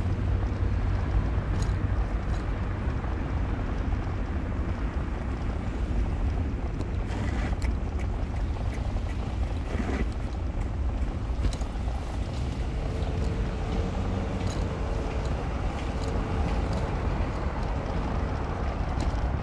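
A car driving: steady engine and road noise, heaviest in the low end, with a few faint clicks now and then.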